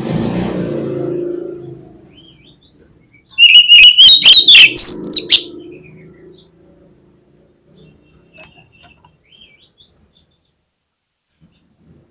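Oriental magpie-robin (kacer) song: a loud burst of about two seconds, with whistled notes that slide and rise, mixed with harsh clicking notes, then faint scattered chirps. A low muffled noise fills the first two seconds.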